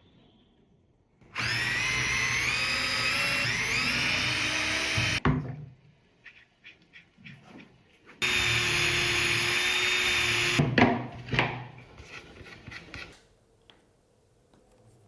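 Power drill running in two bursts, about four seconds and then about two and a half, drilling the leveling screw holes in a table saw zero-clearance insert. Its whine climbs as the motor spins up, each burst stops sharply, and light clatter follows each one.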